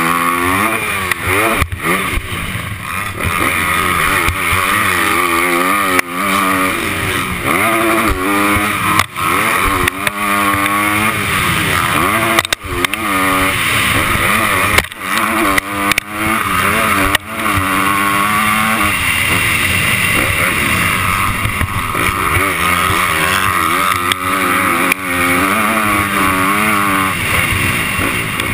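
Honda 250-class motocross bike engine heard on board, revving up and dropping back again and again as it is ridden hard around the track. A constant rushing noise and a few sharp knocks run through it.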